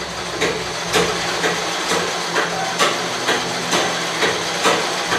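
Treadle (foot-pedal) sewing machine running empty at a steady pace, with no fabric under the raised presser foot: a steady mechanical whirr with a regular click about twice a second.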